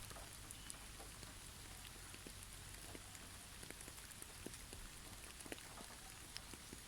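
Faint pattering of heavy snowfall on snow-covered trees: a steady soft hiss with scattered light ticks.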